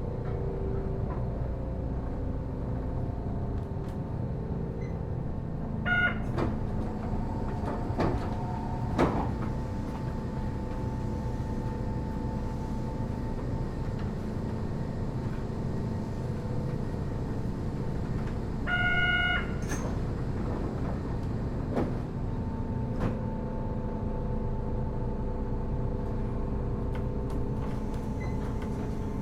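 Kitakyushu Monorail Series 1000 car standing at a station stop: a steady hum from its onboard equipment, two short electronic beeps, one about six seconds in and one near nineteen seconds, and a few knocks from the sliding doors.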